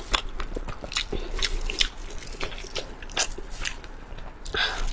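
A person chewing and biting close to the microphone, eating spicy pork skin rolls dipped in sauce: many short, irregular mouth clicks and smacks.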